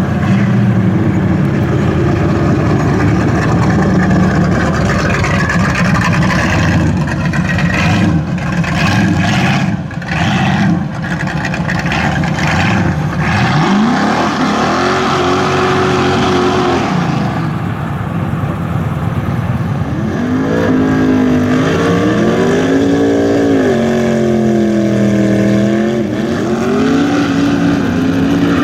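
Muscle-car V8 engine running loud with a heavy, dense rumble, then revved up and down again and again from about halfway through, its pitch rising and falling with each rev.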